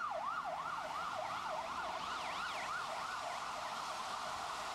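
Emergency vehicle siren in fast yelp mode, its pitch sweeping up and down about three times a second, the sweeps growing blurred and smeared as it goes on.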